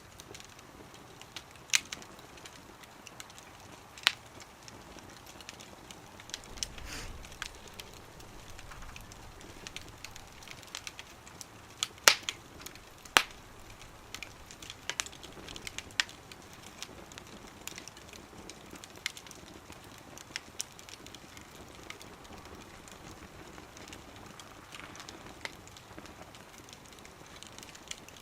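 Wood fire crackling in a small wood stove, with scattered sharp pops over a faint hiss; the loudest pops come about twelve and thirteen seconds in.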